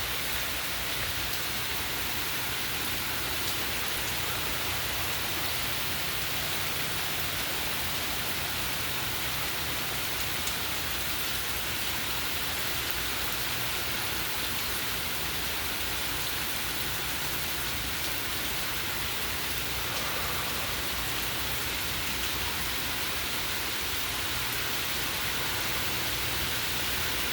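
Hurricane rain falling steadily, an even hiss without let-up.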